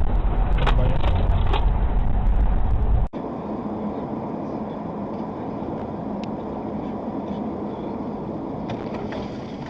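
Road and engine noise of traffic from a moving vehicle: a loud low rumble with a couple of short knocks that cuts off sharply about three seconds in, then a quieter, steady noise of traffic.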